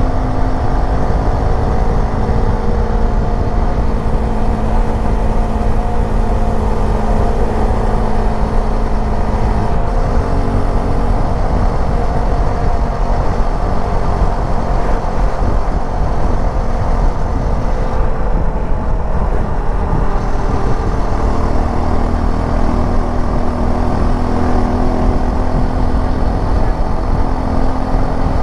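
Suzuki V-Strom 250 SX's single-cylinder engine running under way on the road, its note shifting in pitch about a third of the way in and again near the end as road speed changes.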